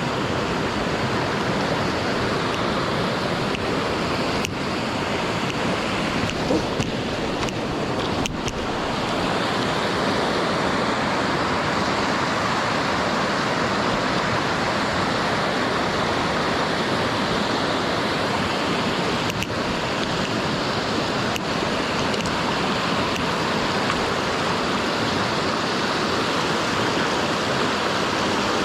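Mountain stream rushing steadily over rocks, with a few faint clicks in the first third and again later.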